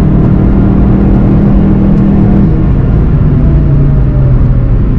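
VW Golf 7 GTI TCR's turbocharged four-cylinder heard from inside the car at high speed, under heavy wind and road noise. The engine note holds steady, drops about halfway through, and then falls away as the car lifts off and slows.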